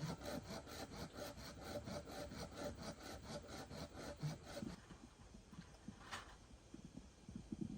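Hand saw cutting wood in quick, even strokes, about four or five a second, stopping a little past halfway through. A single sharp click follows.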